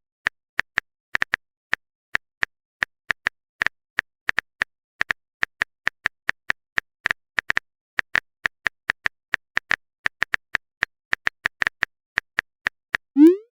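Phone keyboard typing sound effect: a long run of short clicks, irregular, about four or five a second.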